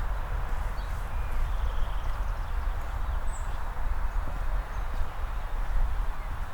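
Footsteps on pavement with an even low rumble, and a few short, high bird chirps, one near the start and one about three seconds in.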